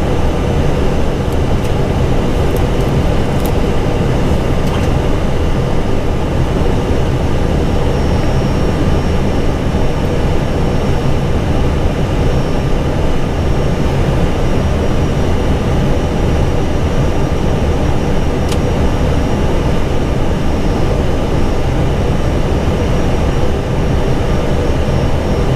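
Steady rush of airflow and engine noise in an Airbus A320 cockpit on final approach, with landing gear down and flaps at full.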